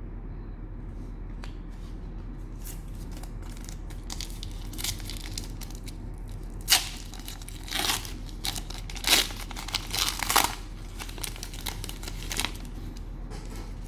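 Cellophane wrapper of a trading-card pack being torn open and crinkled: a run of irregular crackles, sharpest in the middle, over a low steady hum.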